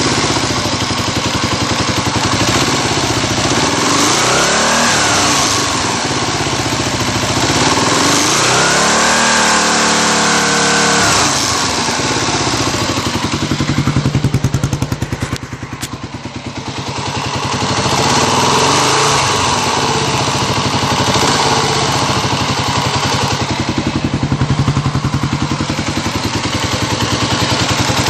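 A 1997 Kawasaki KLR250's single-cylinder four-stroke engine idles and is revved several times: short blips, and one rev held for about three seconds. It runs without the clacking of a worn intake cam and rocker arm, which have just been replaced with the rocker shaft.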